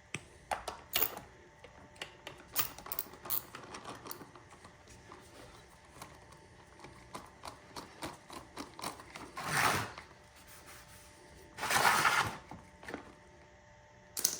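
Aerosol degreaser sprayed on a small two-stroke engine in two short hisses, about ten and twelve seconds in, among light clicks and rattles of parts being handled.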